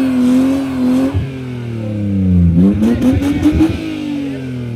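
Car engine revving hard: held at high revs, dropping away about a second in, then revved up again with sharp crackles from the exhaust before the revs fall.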